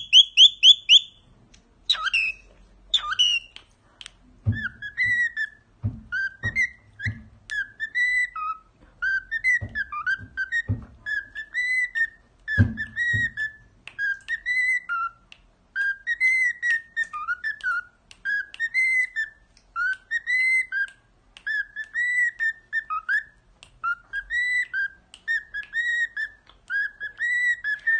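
Cockatiel whistling a tune: short rising-and-falling whistled phrases repeated over and over, opening with a quick run of high chirps. A handful of sharp knocks sound in the first half.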